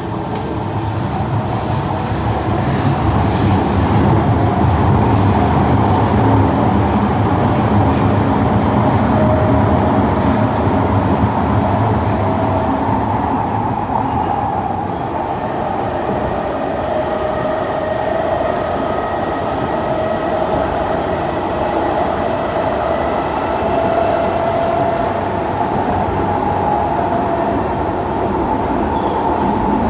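Kawasaki–Nippon Sharyo C151 metro train running in a tunnel, heard from inside the car: a steady rumble of wheels on track, heaviest in the first half, with the traction motors' whine rising slowly in pitch.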